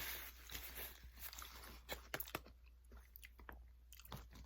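A person chewing and biting crunchy food close to the microphone: faint, irregular crunching and mouth clicks.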